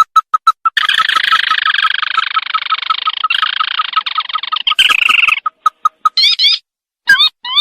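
Recorded call of the sintar (tikusan mata merah, a crake) played as a trapping lure. A fast run of short notes, about seven a second, is joined about a second in by a dense, harsh chatter that lasts some four seconds. Then the quick notes return, and a few swooping notes come near the end.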